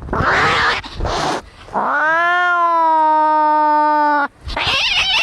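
Angry cats fighting: rough, hissing cries, then one long yowl that rises and is held for about two seconds, then harsh hissing cries again near the end.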